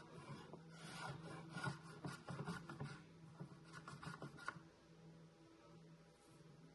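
Wood being abraded by hand in a run of quick rubbing strokes, faint, which stop after about three seconds, over a low steady hum.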